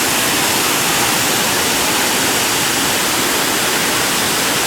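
Steady, even rushing noise, unchanging throughout.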